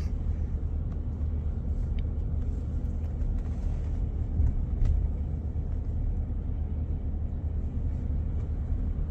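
2023 pickup truck being driven, a steady low rumble of engine and road noise.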